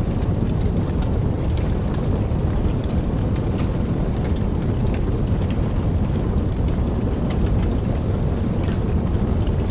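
Wood fire burning: a steady low roar with many scattered soft crackles and pops.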